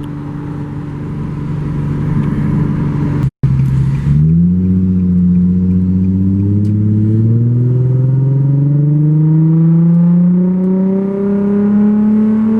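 Nissan 350Z's V6 engine running loud inside the cabin: a steady drone, a sudden break about three seconds in, then the note rising slowly and evenly for about eight seconds as the car accelerates in one gear.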